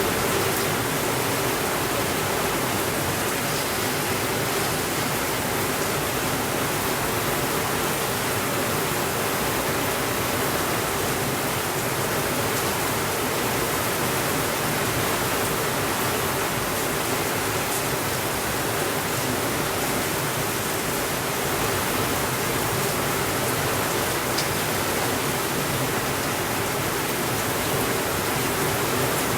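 Steady rainfall, an even hiss that holds the same level throughout, with no thunder. A few faint ticks stand out here and there.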